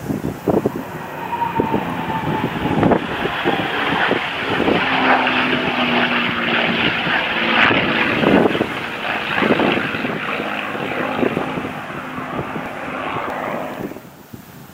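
P-51 Mustang's V12 piston engine running steadily as the fighter flies a display pass, loudest in the middle and dropping away about a second before the end.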